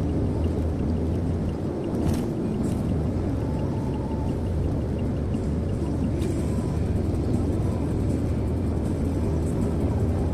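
Steady road and engine noise inside a moving car's cabin: a low drone with tyre hiss, and a light knock about two seconds in and again about six seconds in.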